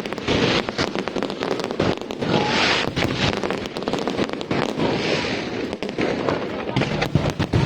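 Fireworks display going off: a dense run of overlapping bangs and crackling bursts throughout.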